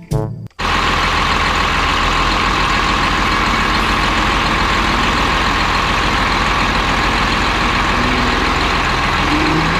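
Heavy truck engine running steadily, the engine sound for a mining truck, starting about half a second in.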